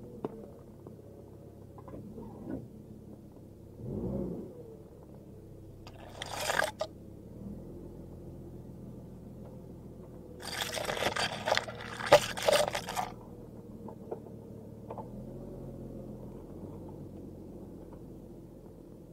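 A 1990 Jeep Cherokee XJ's engine running steadily, with two loud bursts of harsh rushing noise on top: a short one about six seconds in and a longer one from about ten to thirteen seconds.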